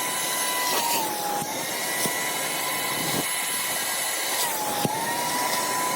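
Electric motor whining steadily over a rush of air. Its pitch sags briefly twice, a little over a second in and again near the end, as it takes load, then recovers.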